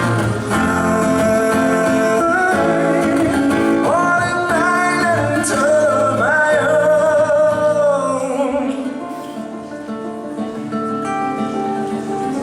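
Live acoustic rock music in a passage without lyrics: strummed acoustic guitars hold chords while a melody line slides up and down in pitch over them, and the playing thins out and gets quieter about eight seconds in.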